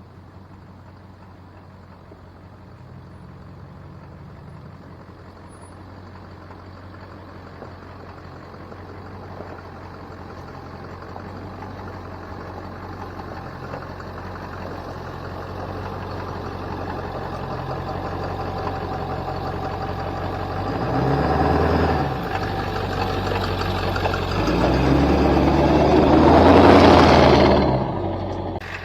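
Full-size pickup truck's V8 engine pulling the truck up an off-road climb, growing steadily louder, with two surges of throttle about three quarters of the way through, the second the loudest, then easing off near the end.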